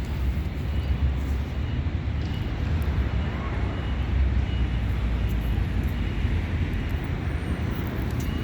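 Wind rumbling on the microphone outdoors, with faint, scattered bird chirps above it.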